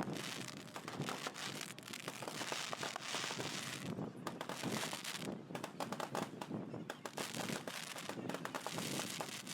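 Fireworks crackling and popping in rapid, irregular runs over a steady outdoor hiss.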